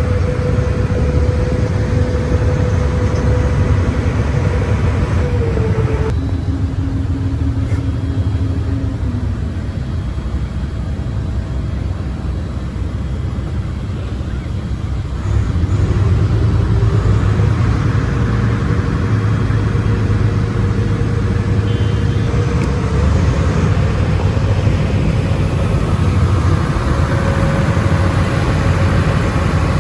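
Ferry engine running steadily with a low rumble and a faint whine that drops in pitch about five seconds in and climbs back later; the rumble gets louder about halfway through.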